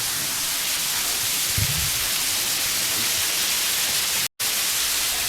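Steady rushing hiss of water falling inside a cave, even and unbroken; it cuts out completely for a split second about four seconds in.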